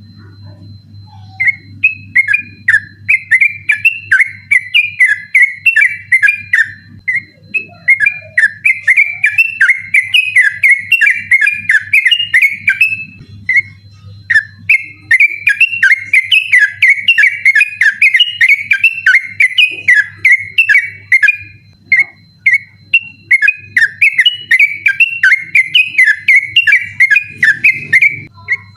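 Yellow-vented bulbul (trucukan) singing a fast, unbroken run of chirping, whistled notes in its rolling 'ropel' style. It starts about a second and a half in, breaks off briefly near the middle, then carries on. A steady low hum lies underneath.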